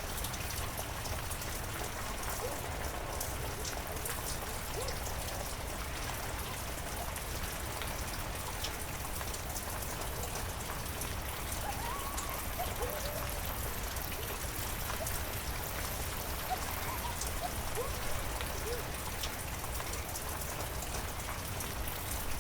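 Heavy rain falling steadily, with scattered sharp ticks and small plinks of drops hitting surfaces.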